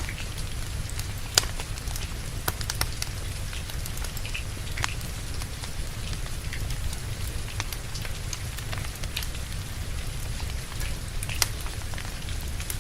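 Steady rain mixed with a crackling wood fire in a fireplace: a constant low hiss and rumble with irregular sharp pops from the burning logs, the loudest about a second and a half in and again near the end.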